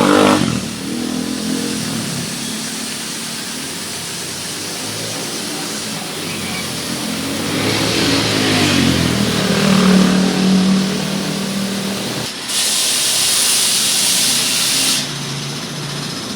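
A car's engine running, swelling a little in the middle. Then a sharp, high hiss of water spray starts suddenly about twelve seconds in and cuts off after about two and a half seconds, like a pressure washer gun being triggered.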